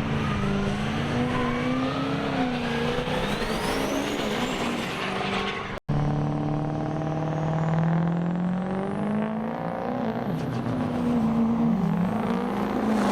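Diesel truck engines running hard, with a whistle that climbs steeply in pitch, the sound of a turbo spooling. A hard cut about six seconds in starts another stretch of engine sound that rises and falls in pitch.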